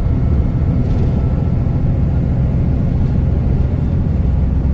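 Cab interior of a T360 concrete mixer truck at freeway speed: the diesel engine and road noise make a steady low drone.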